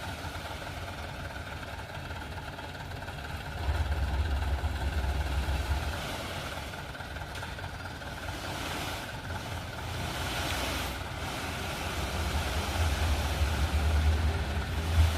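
Dump truck engine running, a low rumble that swells twice as the engine is revved up and eases back.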